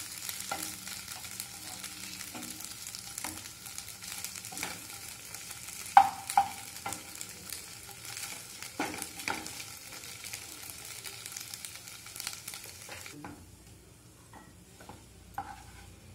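Chana dal fara pieces sizzling in oil in a nonstick pan as a wooden slotted spatula stirs and scrapes them, with scattered clacks of the spatula against the pan, the two loudest about six seconds in. The gas has just been turned off, and the sizzle stops about thirteen seconds in, leaving a few fainter spatula knocks.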